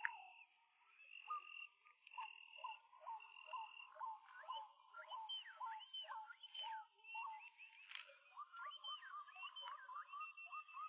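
Faint outdoor chorus of birds singing: clear whistled notes, some held steady and many quick slurred ones, repeating over and over.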